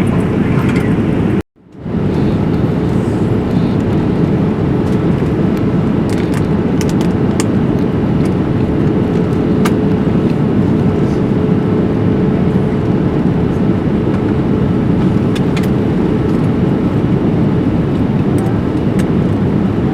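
Steady rushing cabin noise inside a Boeing 787 airliner in flight, from air and engines, with a faint steady hum under it. The sound cuts out for a moment about a second and a half in, then resumes unchanged.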